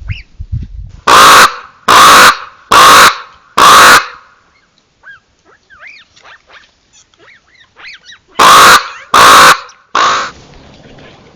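Common raven calling: four loud croaks in quick succession, then after a pause three more. Fainter chirping bird calls come in between.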